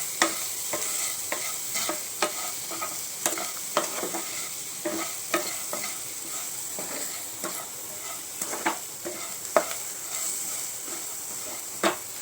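Sliced shallots frying in coconut oil in a pan, a steady sizzle, with a spoon scraping and clicking against the pan about once a second as they are stirred.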